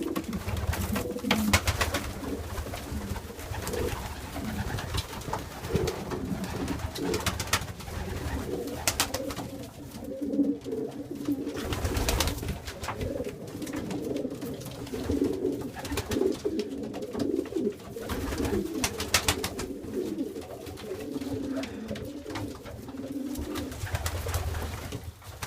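Domestic pigeons cooing over and over. This is the cocks' courtship cooing as they drive the hens before laying. Occasional short sharp clicks are heard among the calls.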